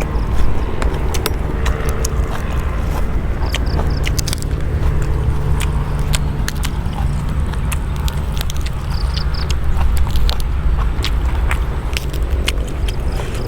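Pestle knocking and scraping in a mortar while long beans are pounded for a bean salad, with irregular sharp knocks over a steady low rumble.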